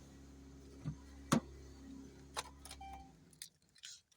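Dodge Caravan's 3.6-litre V6 idling, then cutting off about three seconds in, with a few sharp clicks over it, the loudest just over a second in.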